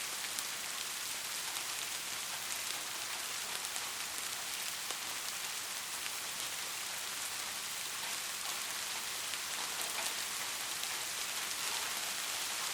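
Steady rain falling, an even hiss with many small drop ticks through it, and no thunder.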